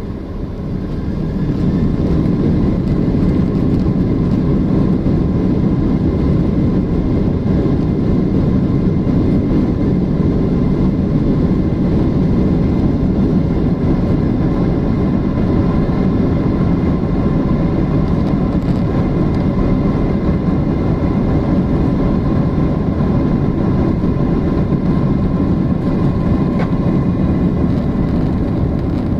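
Airliner engines heard from inside the cabin, swelling in level over the first two seconds to takeoff power and then holding a steady, loud cabin rumble with a faint steady whine above it.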